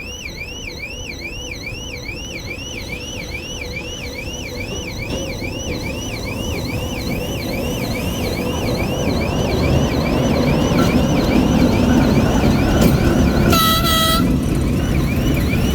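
ChME3 diesel shunting locomotive approaching, its engine rumble growing steadily louder, with one short typhon horn blast near the end. An electronic alarm warbles in quick repeated rising sweeps throughout, fading toward the end.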